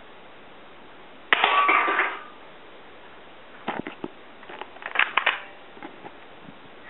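Plastic spring airsoft pistol being handled and shot at targets. About a second in there is a loud clatter lasting just under a second, followed by scattered sharp clicks and a louder cluster of clacks about five seconds in.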